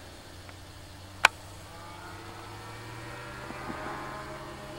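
Light aircraft engine running steadily at a distance, growing slowly louder as the plane comes closer. A single sharp click about a second in.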